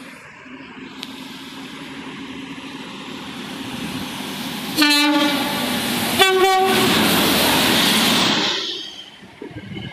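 A train approaching through the station sounds its horn twice, a short lower note and then a higher one about a second and a half later. Then comes the loud rush and rumble of a train passing close at speed, which falls away sharply near the end.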